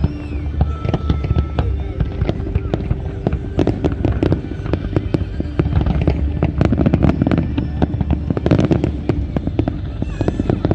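Fireworks display going off in rapid, continuous bangs and crackles, with several bursts close together about seven to nine seconds in.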